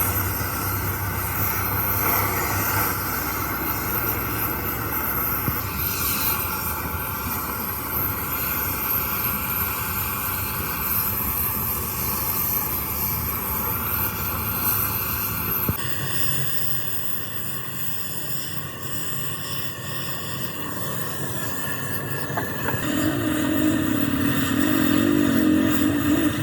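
Steady mechanical rumble like running engines or machinery, changing abruptly about sixteen seconds in.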